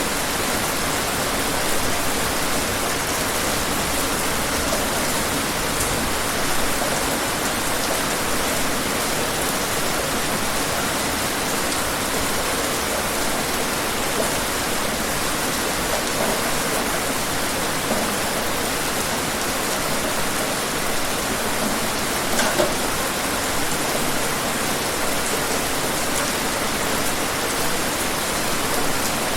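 Steady, dense rainfall with faint scattered drop splashes, a constant even hiss.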